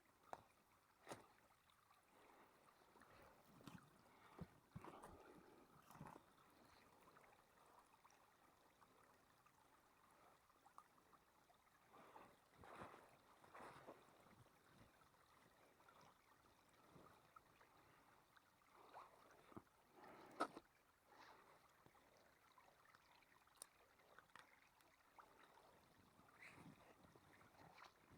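Faint, irregular footsteps crunching and squelching through icy snow and slush, with quiet gaps between the steps.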